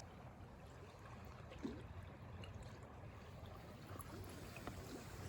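Faint, steady running water of a river, with a few small ticks.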